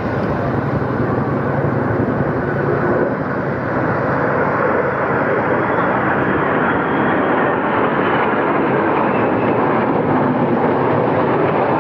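Military aircraft of a flypast passing overhead: a steady engine noise that slowly grows louder, with a faint high whine falling gently in pitch partway through.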